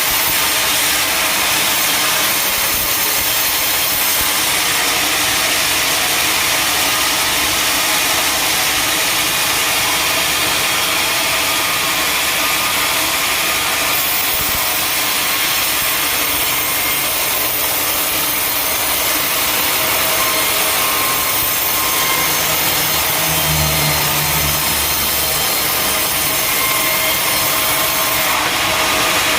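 Sawmill saw cutting steadily through teak wood, a continuous dense sawing noise with a steady whine. A low hum joins briefly about three-quarters of the way through.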